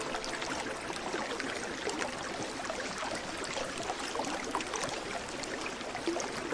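Water trickling and splashing, a steady patter of many small drips and gurgles as from a small stream.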